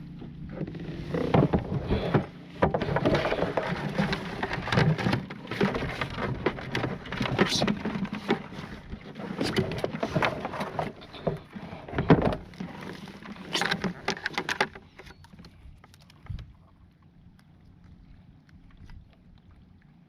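Water splashing and irregular knocks and rattles against a kayak, loud and busy at first and dying down to quiet about fifteen seconds in.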